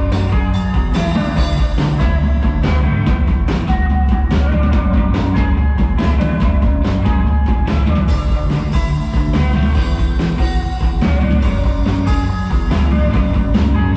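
Rock band playing live: an instrumental passage of drum kit keeping a steady beat under sustained guitar and bass, with no singing.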